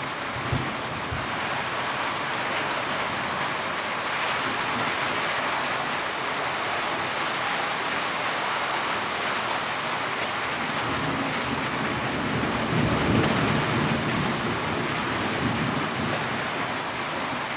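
Heavy rain falling steadily and densely, with a low rumble swelling about twelve to fourteen seconds in.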